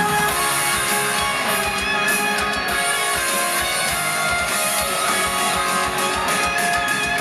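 Live rock band playing, led by strummed electric guitar over drums.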